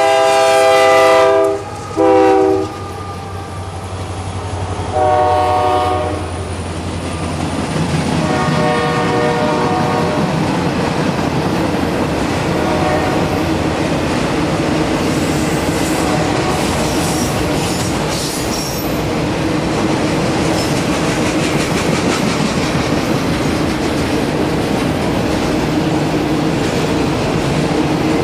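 Diesel freight locomotive horn blowing a long blast, a short one, then another long blast that fades as the locomotives pass. After that the freight cars roll by with a steady rolling noise and clickety-clack of the wheels over the rail joints.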